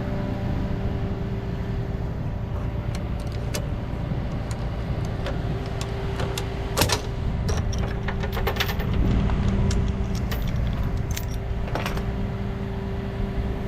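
Tow truck engine running steadily while the car's tie-downs are released: scattered metallic clicks and clinks of strap ratchets and hooks, the sharpest about seven seconds in.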